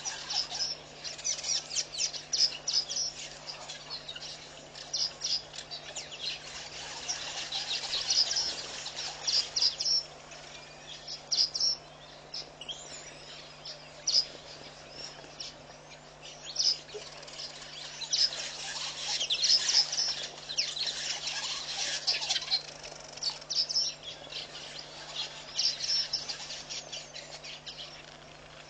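Birds chirping: many short, high-pitched chirps in quick runs that come and go, busiest about seven to ten seconds in and again from about eighteen to twenty-three seconds, over a faint steady low hum.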